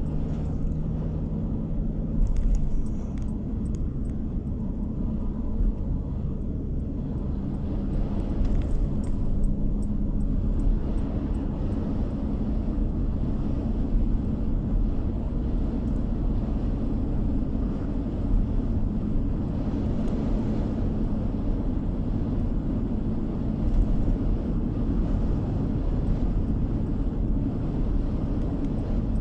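Steady low road rumble of a car driving, tyre and engine noise heard from inside the cabin, with a faint engine hum in the first couple of seconds.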